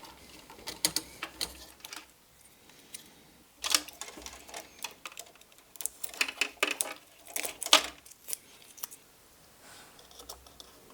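Small plastic and metal parts of a model locomotive being handled during decoder installation. Irregular clicks, taps and light rattles come in clusters, the loudest between about 6 and 8 seconds in.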